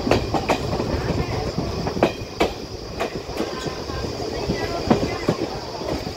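Train running along the track: a steady rumble broken by irregular sharp clicks and knocks of the wheels, with a constant high hiss.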